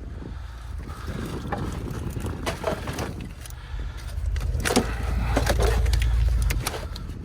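A vehicle engine running with a low, steady rumble that gets louder from about four seconds in until near the end, with scattered clunks and knocks over it.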